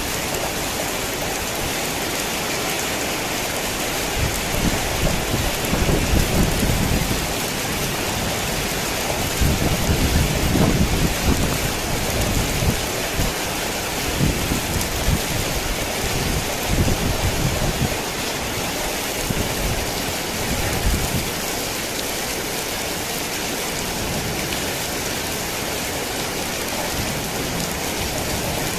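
Heavy rain falling steadily, a dense even hiss. Low rolling thunder rumbles in several swells, from about four seconds in until about twenty seconds in.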